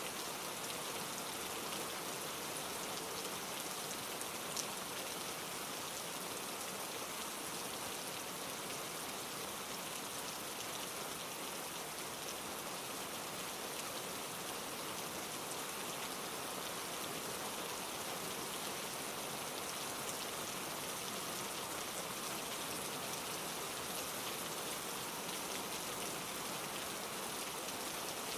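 Steady, even rain with fine drops pattering on foliage, with one slightly sharper drop tick about four and a half seconds in.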